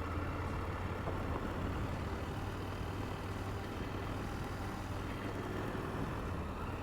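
Adventure motorcycle engine running at a steady cruise while riding, heard as an even low hum with light wind and road noise.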